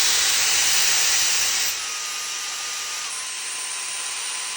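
Dyson V11 cordless vacuum's motor running with a steady rushing hiss and a thin whine, stepping down in power as its modes are switched: louder at first, quieter a little under two seconds in, and lower in pitch about three seconds in. This shows the mode switching works again now that a replacement main board has been fitted.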